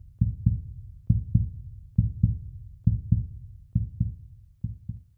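Heartbeat sound: pairs of low thumps in a steady rhythm, about one pair a second, the last pair quieter.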